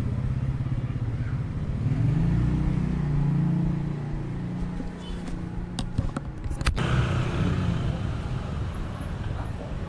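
Street traffic: a motor vehicle engine running close by, loudest about two to four seconds in. A few sharp clicks or knocks follow around six to seven seconds in.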